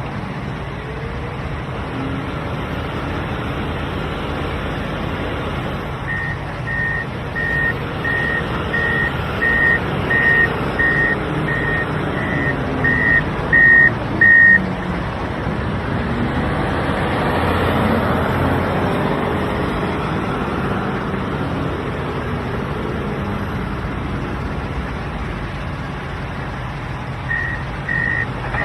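Wheel loader's diesel engine running, with its reversing alarm beeping at a steady pace, about a dozen beeps growing louder, then stopping. The engine then revs up under load past the middle, and the reversing beeps start again near the end.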